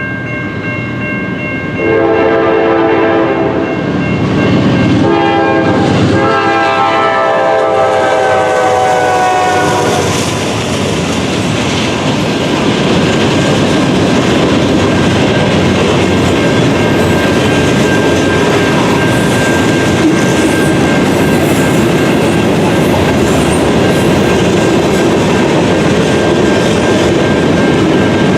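Diesel freight locomotive's air horn sounding a chord in two blasts, the second long and sliding down in pitch as the locomotive passes. The train then rolls by close, with steady wheel clatter and rumble from the passing cars.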